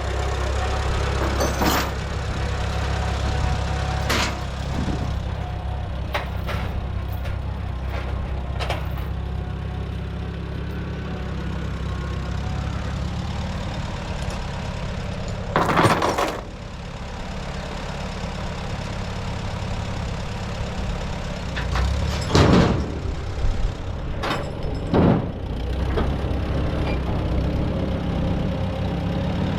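Tractor engine idling steadily, with several sharp clanks or knocks over it and one louder, longer rattle about halfway through.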